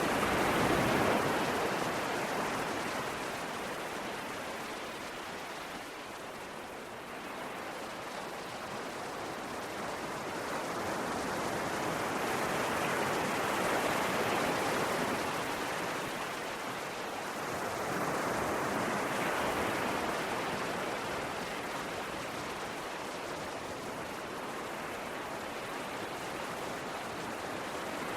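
Sea waves breaking and washing on a shore: a continuous rush of surf that slowly swells and eases, loudest about a second in, again around the middle and once more about two-thirds through.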